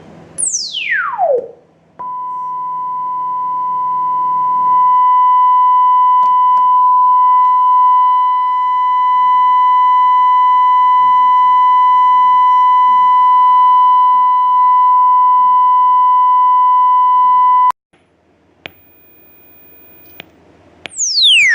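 Test-signal tones played through the amplifier under test: a quick downward pitch sweep, then a steady high-pitched sine test tone with faint overtones held for about fifteen seconds before it cuts off suddenly, and another downward sweep near the end.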